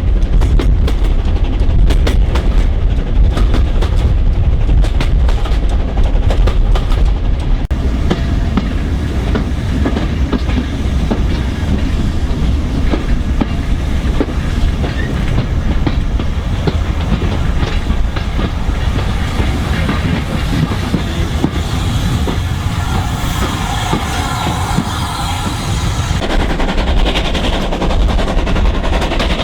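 Steam-hauled passenger train running along the line: a steady heavy rumble with rapid clattering knocks from the wheels and track. The knocking is densest at the start.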